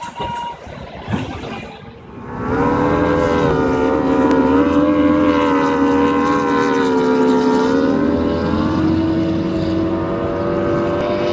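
A motor running with a loud, steady pitched hum that starts about two seconds in and shifts slightly higher about eight seconds in.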